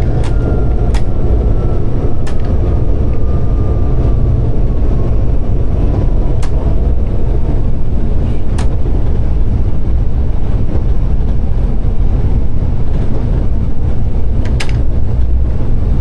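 Running noise inside a diesel locomotive's cab: a steady, loud low rumble of engine and wheels. A faint whine slides slowly down in pitch over the first several seconds, and a handful of sharp clicks are scattered through it.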